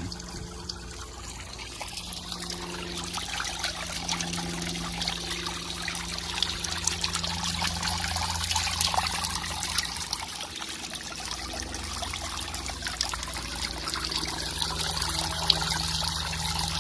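Water from a POPOSOAP 12W solar fountain pump's spray falling back into the water, a steady trickling and splashing. A faint low hum lies underneath.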